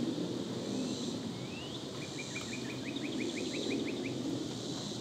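A songbird singing: a rising slurred note, then a quick run of about a dozen short down-slurred chirps that lasts a couple of seconds, over a steady low hum of backyard ambience.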